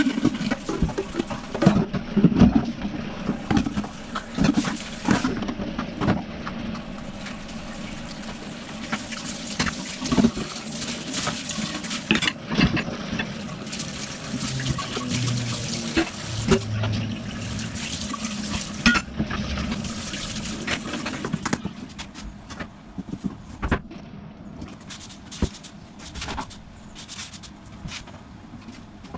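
Water running and splashing in a kitchen sink, with many sharp knocks and clatter of things being handled; the sound grows quieter about three-quarters of the way through.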